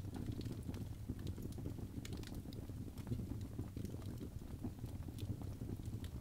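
Birch log fire crackling, with irregular sharp snaps and pops over a steady low rumble of the flames.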